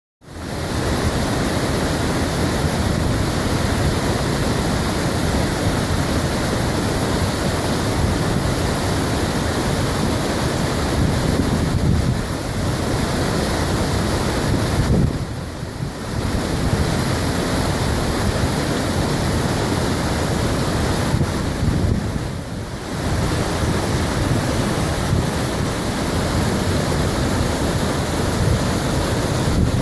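Steady rush of a waterfall about 20 m high, a dense, even roar of falling water that briefly eases twice near the middle.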